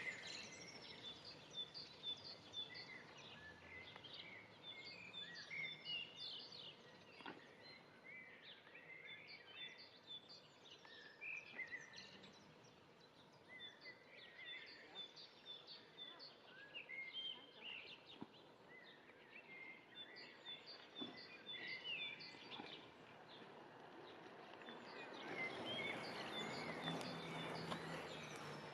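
Small birds chirping and calling in many short, high notes, some repeated in quick series, over a steady background hiss. A broad rushing noise swells near the end.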